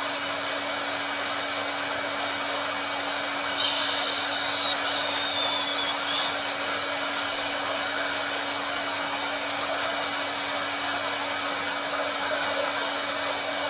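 Hair dryer running steadily: a rush of blown air over a steady motor hum, turning briefly brighter and hissier about four seconds in.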